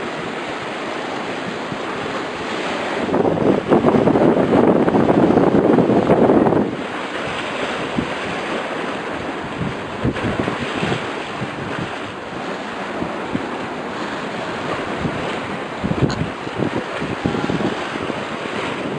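Wind blowing across the microphone over the sound of sea waves. A louder gust comes in about three seconds in and cuts off suddenly a few seconds later.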